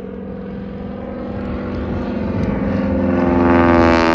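A Stearman biplane's propeller engine passing low overhead. It grows steadily louder to a peak near the end, and its pitch drops as it goes by.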